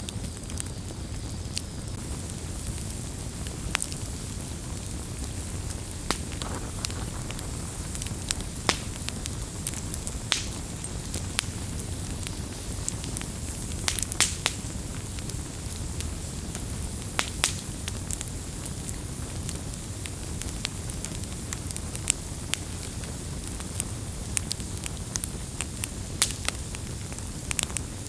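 Wood campfire burning steadily, with frequent sharp, irregular crackles and pops over a low, even rush of flame.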